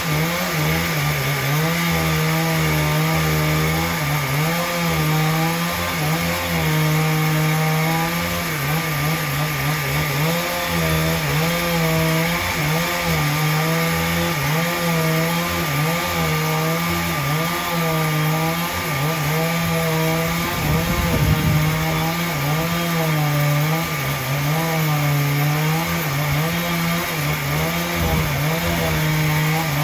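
Chainsaw running and cutting wood, its engine pitch dipping and recovering again and again as it works through the wood.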